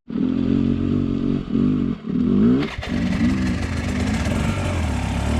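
Dirt bike engine revving up and down in repeated bursts as it is ridden, with a brief drop in the engine about two seconds in.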